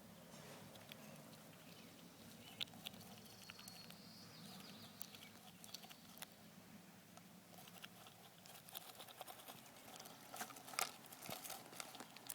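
Squirrel feeding in a bird feeder: scattered small clicks and crunches of seed being handled and chewed, coming thicker in the last few seconds.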